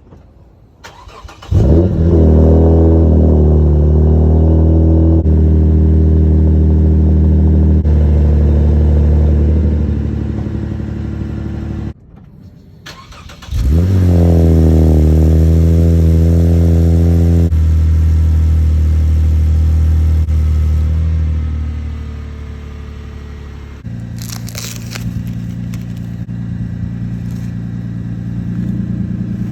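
Toyota Crown (210 series) exhaust at a cold start, fitted with a simple muffler fix against cold-start noise. The engine cranks briefly and catches with a rising flare into a loud, steady fast idle. Near the middle it stops and is started again, flaring up the same way, then settles in steps to a quieter, lower idle.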